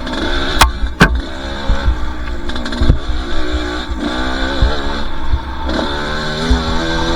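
Two-stroke dirt bike engine revving up and down as it climbs a trail, with two sharp knocks about half a second and a second in.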